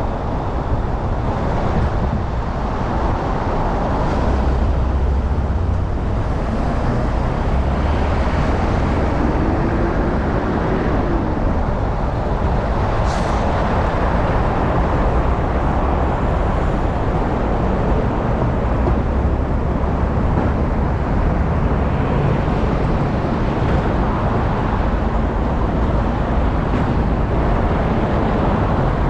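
Steady road traffic noise with a heavy low rumble, heard from a bicycle riding along city roads. A brief sharp click cuts through about thirteen seconds in.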